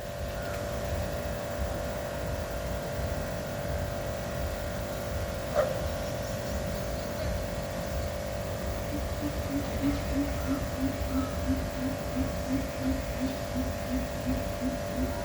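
Greater coucal calling a long series of deep, evenly spaced hoots, about three a second, starting about nine seconds in, over a steady hum and low rumble.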